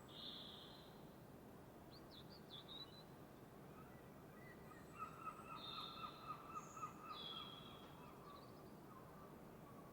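Wild birds singing faintly over a soft steady hiss: a short high whistle at the start, a few quick chirps about two seconds in, then a rapid trill from about five to seven seconds with other high whistles over it.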